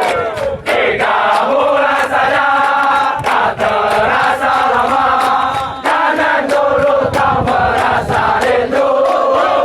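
A large group of Indonesian soldiers chanting a yel-yel in unison, a sung military chant with held notes. Sharp beats keep time throughout.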